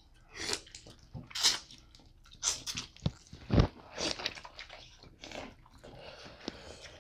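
Two people biting into and chewing lobster tail meat, with irregular wet mouth smacks and bites. The loudest comes about three and a half seconds in.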